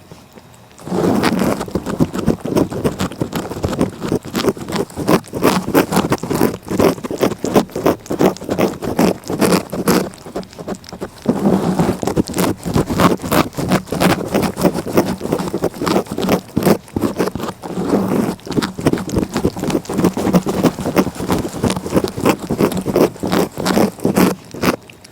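A cat's tongue licking close to the microphone in a quick run of short strokes, several a second. The licking is briefly quieter just after the start and again about ten seconds in.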